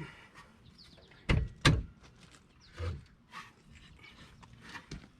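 Two sharp knocks about a third of a second apart, a little over a second in, then a lighter knock and faint clatter: hands and tools knocking against the rear suspension parts while lining up the lower control arm.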